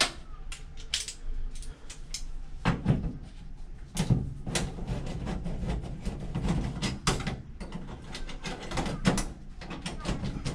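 Irregular clicks and knocks, several a second, as a 5/16 in. driver works the screw of a metal hose clamp on a dryer vent duct to loosen it.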